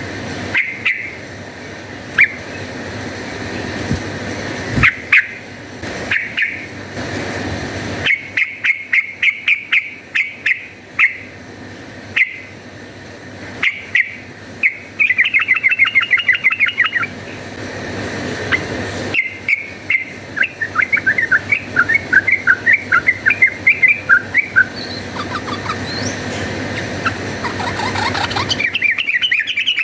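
Yellow-vented bulbul (trucukan) calling in short chirps and runs of quick, chattering notes, the rapid 'fighting' song that bird-keepers use as a lure to get a bulbul to sing.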